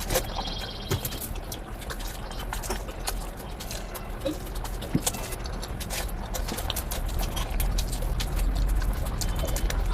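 Close-miked eating sounds: irregular wet clicks and smacks of chewing food, over a steady low hum.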